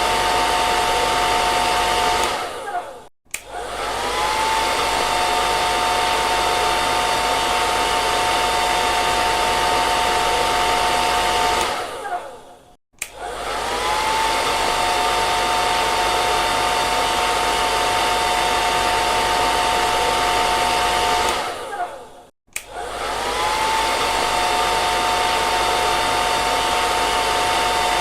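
Hair dryer blowing steadily, with its motor whining under the rush of air. It dies away and starts again three times, the whine rising each time as the motor spins back up.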